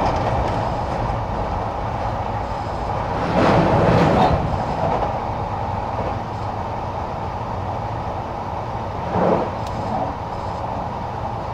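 Sotetsu Series 20000 electric train running between stations, heard inside the passenger car: a steady rumble of wheels on rail, louder for a second or so about three seconds in and again briefly near nine seconds.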